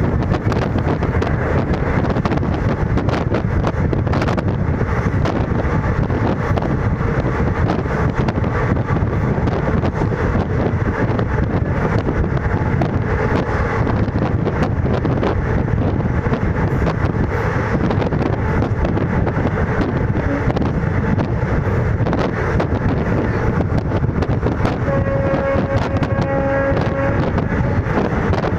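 Indian Railways ICF passenger coach running at speed, about 110 km/h: a loud, steady rumble of wheels on rail with faint ticks from the track. A thin metallic ringing tone comes in near the end.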